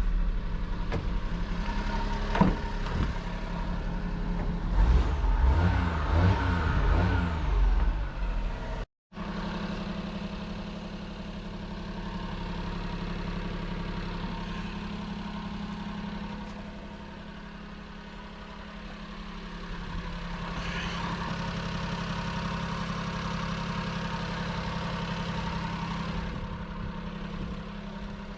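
Daihatsu Hijet S200 kei truck's small three-cylinder engine running, with the throttle blipped several times in the first few seconds. After a brief cut it settles into steady idling.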